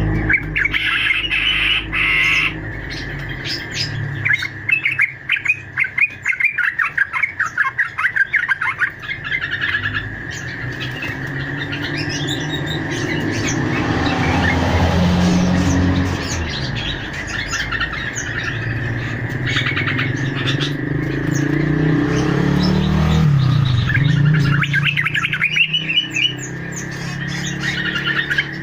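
Bird-lure recording of wild birds chirping and squawking, with fast runs of chirps near the start and again near the end, over a steady high tone and a low hum. It is played to draw in fruit-eating birds.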